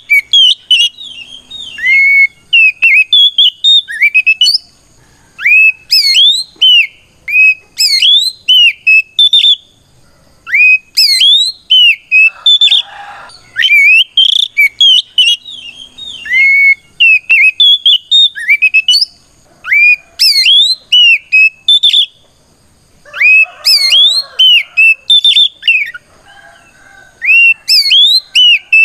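Oriental magpie-robin (kacer) in full, loud song: rapid runs of clear whistled notes sweeping up and down, broken by short pauses. It is the bird's challenge song, calling out a rival.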